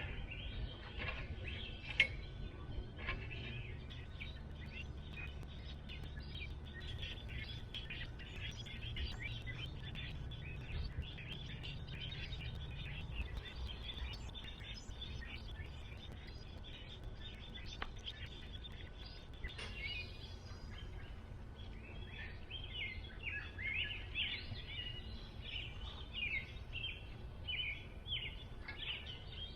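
Birds chirping and singing, many short calls overlapping, busier in the last few seconds, over a low steady background rumble.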